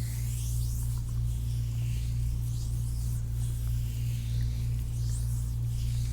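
Hands sliding over the skin of a foot during a massage, heard up close as soft repeated swishes, over a steady low hum.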